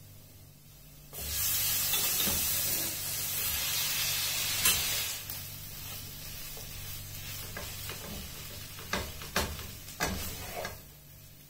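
Boiled potato cubes sizzle loudly as they hit a hot pan of fried onions about a second in; the sizzle eases after a few seconds while a spatula stirs and mashes them, with a few sharp clicks against the pan near the end.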